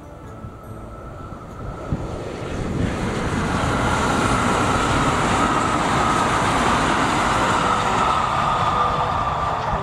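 Kintetsu 15200 series 'Aozora II' six-car express train passing at speed. The rumble of its wheels on the rails swells over the first few seconds and then stays loud, with a steady high whine running through it.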